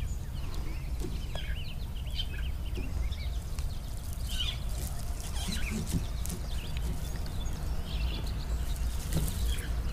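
Birds chirping and calling again and again, short quick notes over a steady low rumble.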